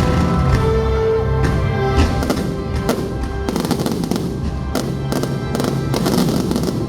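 Fireworks going off in a rapid series of bangs and crackles over loud show music. The bangs grow denser from about two seconds in.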